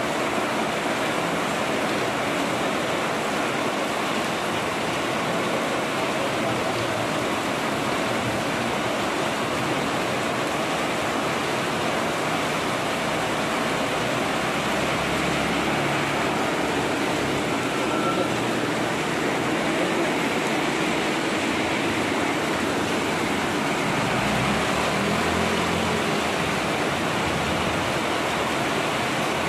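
Heavy rain falling steadily in an even hiss, with water streaming off a roof edge. Motorbike engines rumble past about halfway through and again later on.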